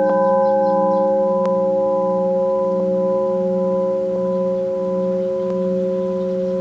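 Several crystal singing bowls ringing together after being struck, their long tones held steady with a slow beating wobble in the lowest one and a few faint taps along the way.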